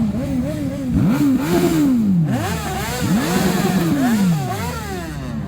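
Motorcycle engine revved again and again, each blip rising and falling in pitch. The revs are loudest from about a second in until near the end.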